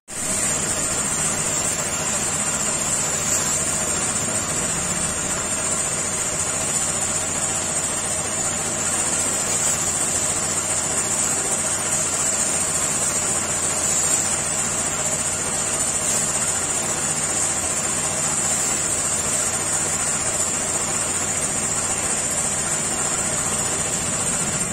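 A motor running steadily without change, a constant hum with a steady high hiss over it.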